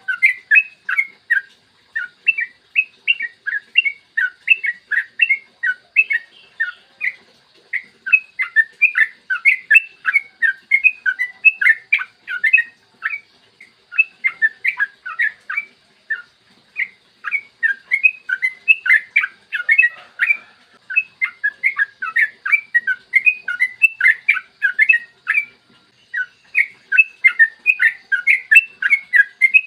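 Yellow-vented bulbul singing in full voice: long, fast runs of short chattering notes, the phrases broken by brief pauses.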